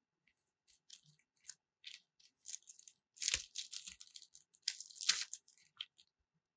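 Paper and packaging being handled: scattered crinkling and rustling, with two louder spells about halfway through and a second and a half later.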